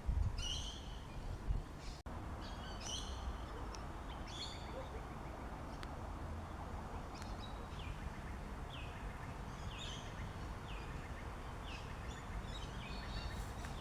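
Birds calling: repeated short chirps, joined in the second half by a series of short falling notes about once a second, over a steady low background noise. Low bumps come in the first couple of seconds.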